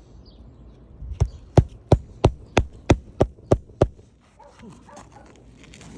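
A hammer driving a roofing nail into an asphalt shingle roof: about nine sharp, even blows at roughly three a second, starting about a second in and stopping near four seconds.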